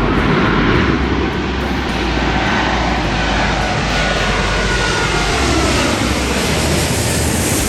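Airbus A380-841's four Rolls-Royce Trent 970 turbofans passing on arrival: a steady jet roar with a faint whine that slides down in pitch as the aircraft goes by.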